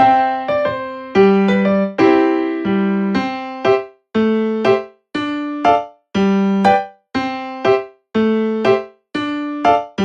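Background music on a keyboard with an electric-piano sound: short phrases of a few notes, each dying away into a brief pause, about one a second.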